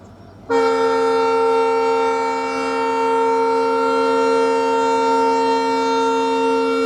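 EMD WDP-4D diesel locomotive's air horn sounding one long, steady blast of several tones together, starting abruptly about half a second in.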